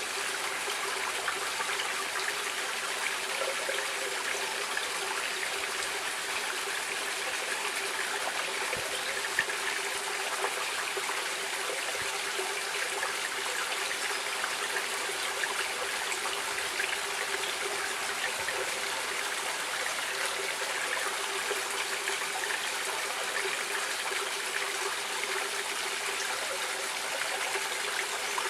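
A stream of water flowing and trickling steadily, an even rushing hiss with no pauses.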